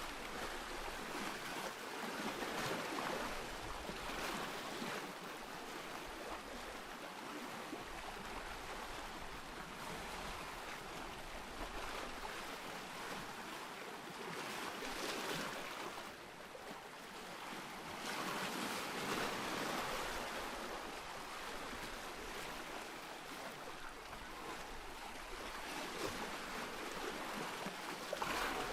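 Ocean surf: waves breaking and washing in, rising in a louder surge every few seconds over a steady hiss of water.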